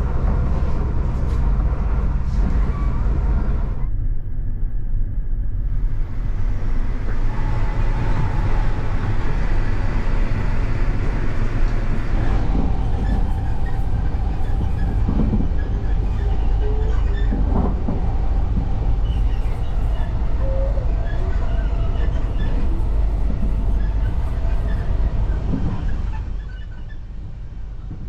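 Passenger train running on the rails: a steady, heavy low rumble with thin whining tones now and then, dropping in level about two seconds before the end.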